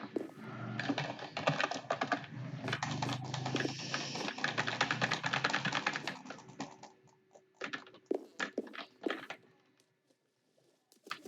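Typing on a computer keyboard: a quick, steady run of keystrokes for about six seconds, then a few scattered key presses and a short pause near the end.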